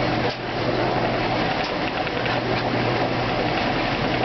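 2008 Kenmore washing machine running its spin cycle: a steady mechanical rushing noise over a low hum, with a brief dip in level about a third of a second in.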